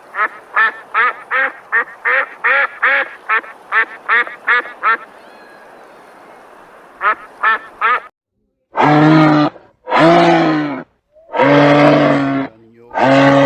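A duck quacking in a fast run of short calls, about three a second, with three more after a short pause. From about nine seconds in, a larger animal gives four long, deep calls, louder than the quacks.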